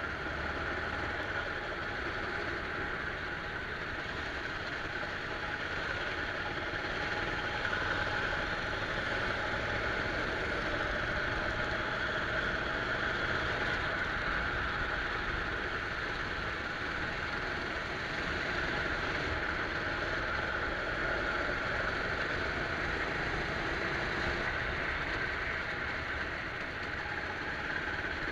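Go-kart engine running steadily, heard from a camera mounted on the kart.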